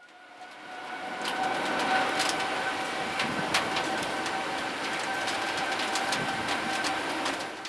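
Boeing 787-9 Dreamliner's jet engines running with a steady whine of two held tones over a rushing noise, fading in over the first second or so. Scattered sharp clicks can be heard over it.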